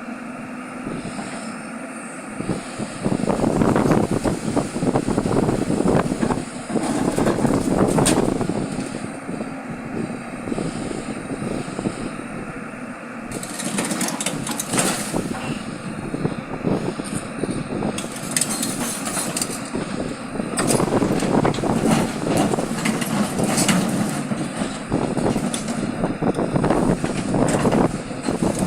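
Heavy loading machinery running while loose stone is loaded into railway wagons, with two louder spells of several seconds each as stone pours and rattles in.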